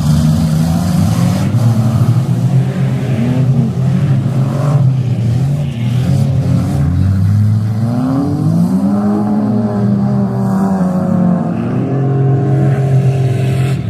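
Several demolition derby car engines revving at once, their pitch rising and falling over and over.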